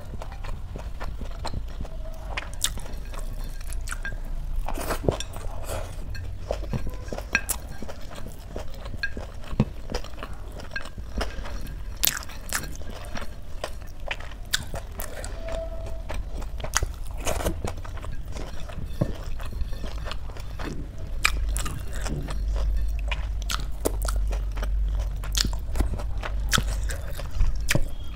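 Chewing and wet mouth sounds of a person eating rice mixed with paneer curry by hand, with many irregular small clicks and smacks.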